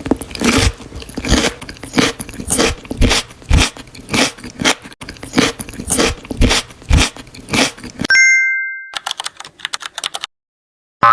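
Close-miked crunchy chewing and biting, a rapid run of crisp crunches about three or four a second, followed about eight seconds in by a short steady electronic beep and a few fainter crunches.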